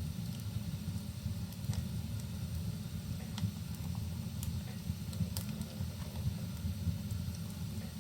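Wood fire crackling in a fireplace, with a sharp pop every second or so over a steady low rumble, and rain falling as an even hiss.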